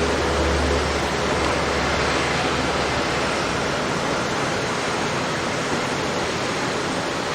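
Jet airliner's engine noise: a steady, broad rush with a low rumble underneath that fades away about a second in.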